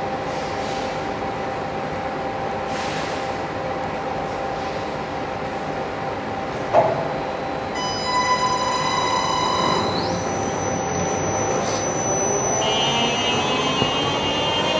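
Xingyi 820RC remote-controlled concrete floor grinder running with a steady hum and noise. There is a sharp knock about seven seconds in. A whine joins about eight seconds in, and from about twelve seconds its pitch rises steadily as the motor speeds up.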